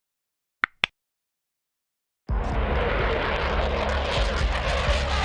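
Two short clicks, then about two seconds in a jet aircraft's engine noise cuts in abruptly: a loud, steady rushing sound with a low rumble under it.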